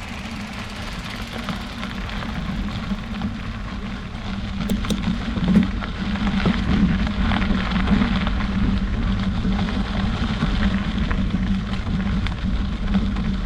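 Bicycle riding along a road: steady tyre rolling noise with wind rumbling on the microphone, gradually getting louder.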